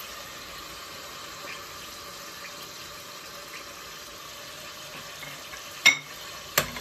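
Chopped onion and chicken sizzling steadily in hot oil in a stainless steel pot. Near the end a metal spoon knocks sharply against the pot twice.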